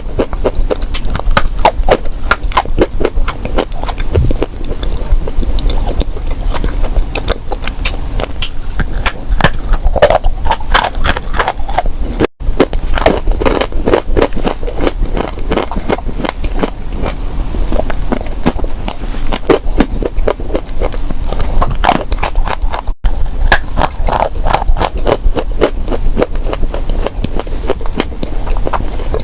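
Close-miked biting and crunching of crunchy edible clay: many crisp crunches and crackles in quick, irregular succession, cutting out for an instant twice.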